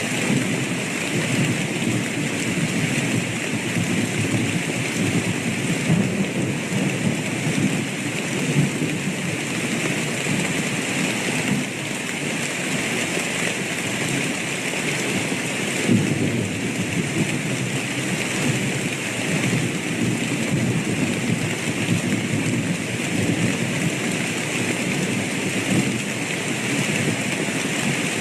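Steady rain with thunder rumbling underneath throughout, with a louder clap of thunder about sixteen seconds in.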